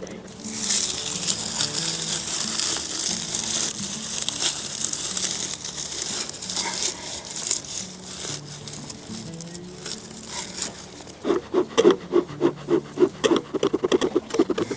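Bee smoker being lit and packed with dry pine needles: crinkling and crackling, strongest in the first few seconds, then a run of short rhythmic puffs near the end, over quiet background music.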